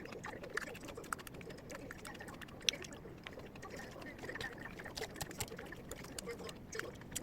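Faint, scattered small clicks and taps over a low hiss, with one sharper click about two and a half seconds in.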